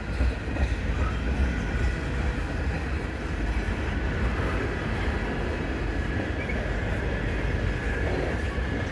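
A long CN freight train rolling steadily past at close range: a continuous low rumble and rushing of wheels on rails, with a faint steady high-pitched tone above it.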